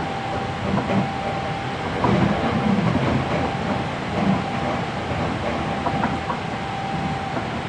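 Hankyu 7300 series electric train running at speed, heard from inside the car with the recorder on the floor: steady rolling noise, with the wheels clicking over rail joints several times and a faint steady high tone that comes and goes.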